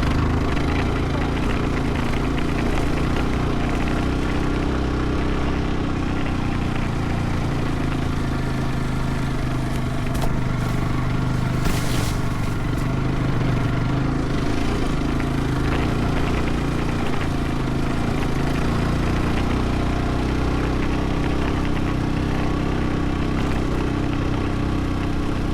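Motorcycle engine running steadily at an even pitch, with a short burst of hiss about ten seconds in.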